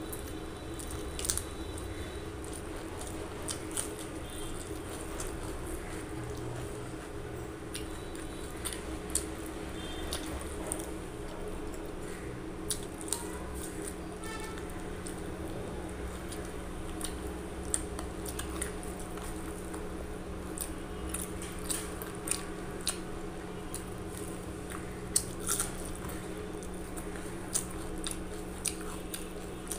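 Close-miked wet chewing of a mouthful of rice and curry gravy eaten by hand, with frequent sharp mouth clicks and smacks, over a steady low hum.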